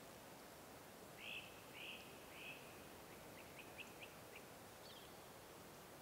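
Faint bird calls over a steady background hiss: three short whistled notes about half a second apart, then a quick run of short, thin chips.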